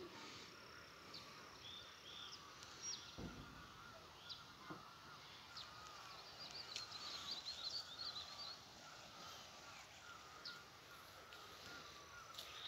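Faint rural outdoor ambience with scattered bird chirps and a short burst of twittering about six to eight seconds in.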